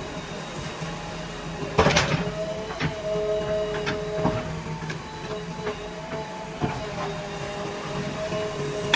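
JCB 3DX backhoe loader's diesel engine running under load, with a wavering hydraulic whine and a few sharp knocks, the loudest about two seconds in.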